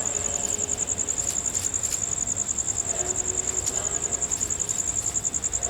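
Crickets chirring: a continuous high, rapidly pulsing trill, with faint voices in the background about halfway through.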